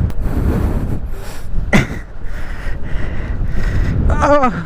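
Men's effort cries while heaving a heavy motorcycle by hand: a short falling grunt about two seconds in, and a longer falling call near the end, over a steady low rumble.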